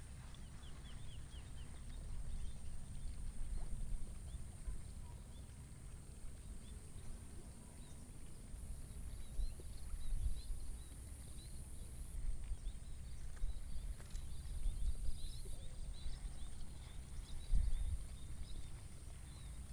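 Outdoor field ambience: wind rumbling on the microphone, a steady high-pitched insect drone, and scattered faint chirps.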